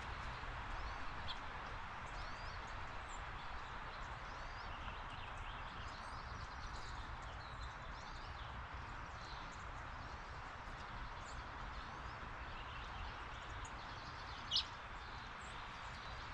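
Backyard outdoor ambience: a steady hiss with a low hum beneath it, and small birds chirping faintly now and then. One sharper, louder chirp comes near the end.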